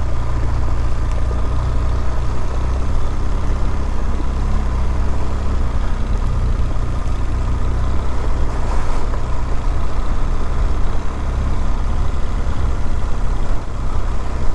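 BMW R1200GS boxer-twin motorcycle engine running steadily, picked up by a helmet microphone as a constant low rumble with road and wind noise over it.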